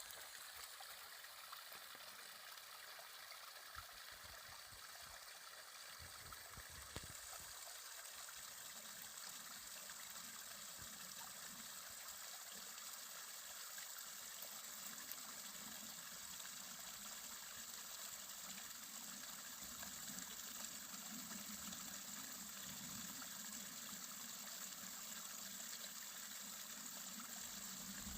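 A faint, steady rush of running water, as from a forest stream, that grows a little brighter and hissier about seven seconds in.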